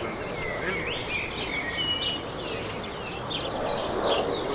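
Songbirds chirping and whistling, many short calls and quick rising and falling notes, over steady outdoor background noise. A short rustle near the end.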